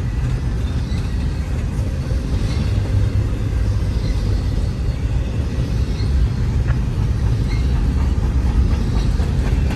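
Double-stack container freight train's cars rolling past: a steady low rumble with faint scattered high ticks from the wheels, growing slightly louder near the end.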